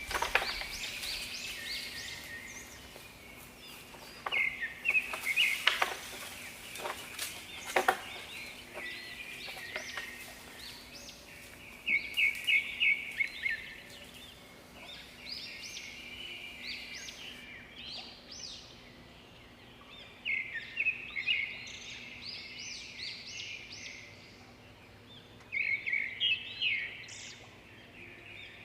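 Birds calling: short, high chirping notes, often in quick runs, with a few sharp clicks in the first several seconds.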